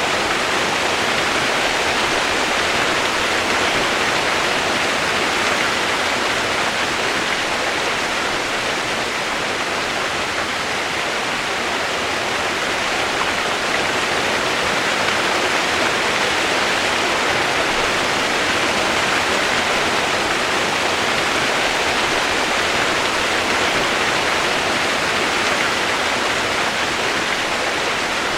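Steady rain noise: an even, unbroken hiss with no separate drops standing out.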